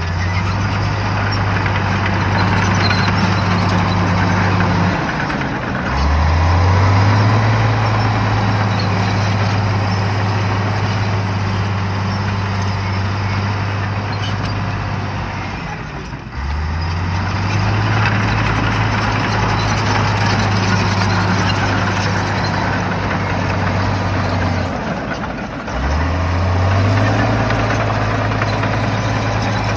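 Shantui bulldozer's diesel engine running hard under load. Its low engine note drops away and then climbs back up three times, roughly every ten seconds, as the machine works through repeated push cycles.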